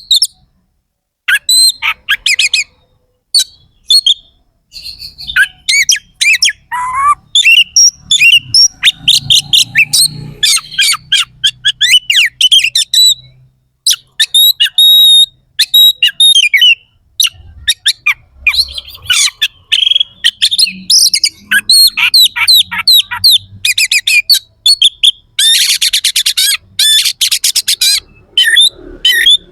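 Oriental magpie-robin (kacer) singing loudly in rapid bursts of sharp, harsh notes and chattering phrases, with brief pauses between bursts and a dense harsh rattle near the end.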